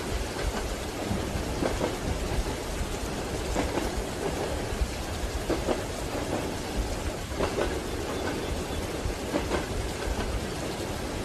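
Steady rain over a low rumble, with the faint clack of train wheels on rail joints coming about every two seconds.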